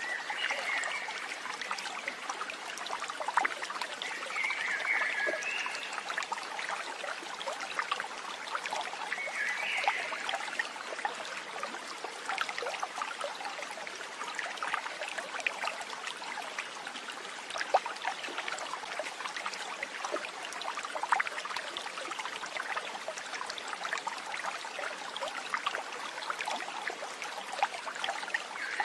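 Running stream babbling and trickling steadily over stones, with a few short high calls from an animal.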